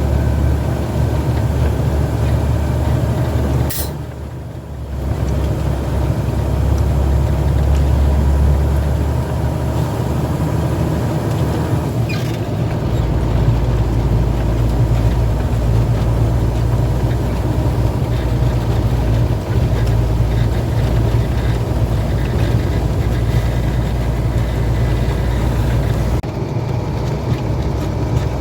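Heavy truck's diesel engine droning steadily on the road. About four seconds in there is a click and a brief drop in level, and around twelve seconds the engine note changes.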